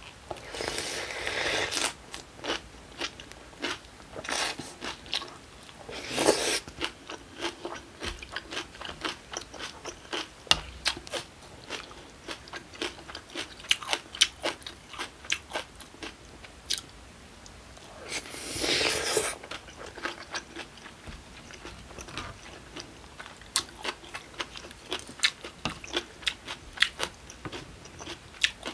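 Close-miked eating: crunchy chewing of kimchi and vegetables with wet mouth clicks, and three longer slurps of cold broth, about a second in, around six seconds in, and about two-thirds of the way through.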